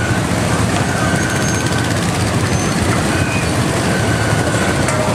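A small ride car running along its track: a loud, steady rumble with a few brief thin squeals.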